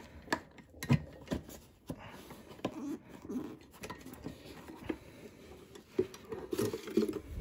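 Hands handling the Hoover Conquest vacuum's bag with the motor off: a string of sharp, irregular clicks and knocks with light rustling between them.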